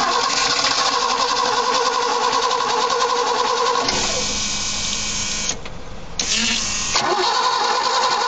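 BMW E21 engine being turned over on the starter motor, with a steady whine. It breaks off for about a second and a half past the middle, then starts again, as if the engine has not caught.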